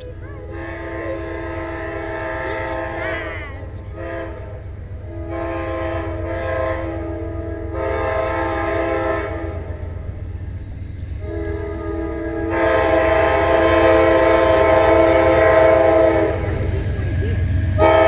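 Amtrak P42 diesel locomotive horn sounding a series of blasts as the train approaches a grade crossing, the last blast long and louder, over the steady low rumble of the oncoming train.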